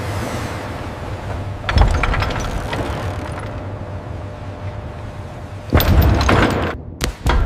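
Two heavy impacts about four seconds apart, each followed by a crackling metallic clatter, over a steady low rumble. The sound cuts out briefly near the end.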